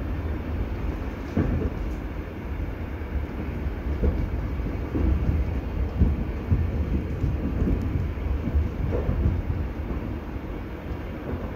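Passenger train running, heard from inside the carriage: a steady low rumble with a few short knocks from the wheels on the track.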